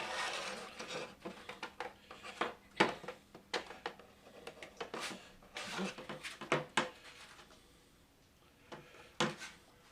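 Handling of 3D-printed plastic model parts being pushed together and fitted: scattered light clicks, taps and rubbing, with a quieter stretch near the end.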